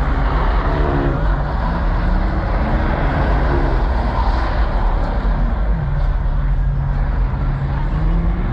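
Car engine running over a heavy low rumble, its pitch rising and falling with the revs, then holding steady for a couple of seconds before rising again near the end.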